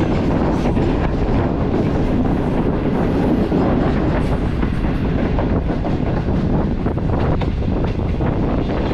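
Green Line Express passenger train running at speed, heard from beside the moving coach: a steady rumble of wheels on the rails with frequent, irregular clicks and knocks.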